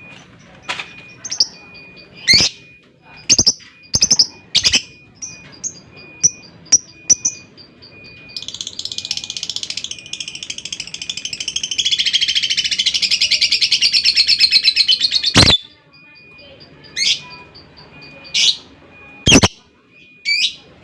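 Lovebird calling: sharp single chirps, then about eight seconds in a long, rapid chattering trill (the "ngekek panjang" long chatter) that builds in loudness for about seven seconds and stops abruptly, after which single sharp calls resume.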